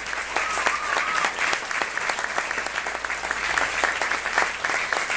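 Small audience clapping and cheering after a live song, with dense, rapid claps throughout and a short whoop about half a second in.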